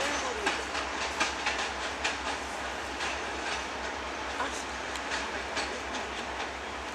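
Train coaches running on the track, wheels clicking over rail joints above a steady rumble. The clicks come quickly at first and thin out after about three seconds.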